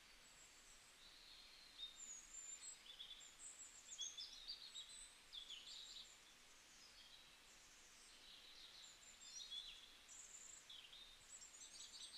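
Faint birdsong: many short, high chirps and quick trills, some rising and some falling, overlapping through the whole stretch.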